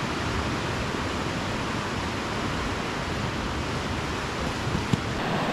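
Fast-flowing river water rushing steadily, swollen by heavy rainfall, with a single brief click about five seconds in.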